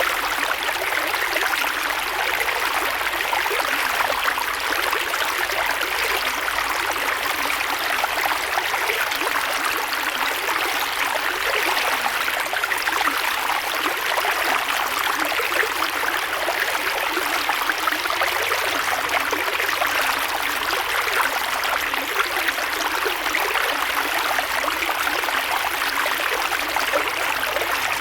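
Creek water flowing steadily over stones: a continuous even rush and babble.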